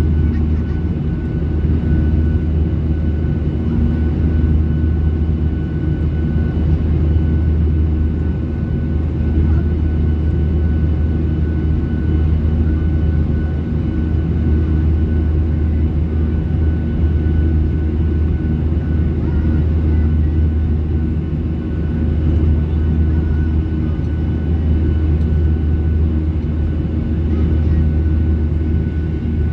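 Cabin noise of a Boeing 737-800 with its CFM56 engines running: a steady, loud low drone with a few faint, steady whining tones above it.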